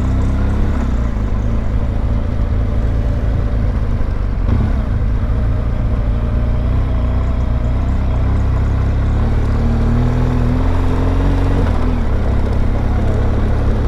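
BMW R1200GS boxer-twin motorcycle engine running while riding, under heavy wind rumble on the microphone. Its pitch drifts with speed, rising a little near the end and then falling.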